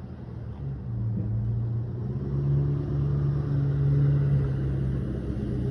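A motor vehicle's engine running with a steady low hum that rises in pitch about a second in and again around two seconds in, over a low rumble.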